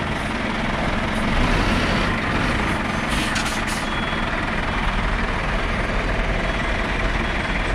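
Vehicle engine running steadily under load with a deep rumble while it pulls a stuck vehicle.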